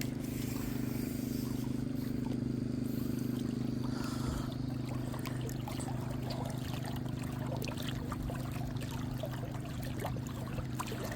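A steady low hum, with faint trickling water and small splashes and knocks over it.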